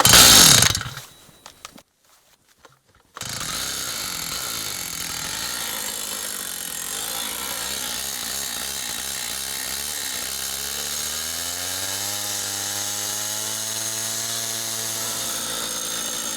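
Petrol abrasive cut-off saw running and cutting through a steel rail. After a brief loud burst at the start and a short pause, the saw starts up about three seconds in and runs steadily with a hissing grind, its engine pitch rising around ten seconds in.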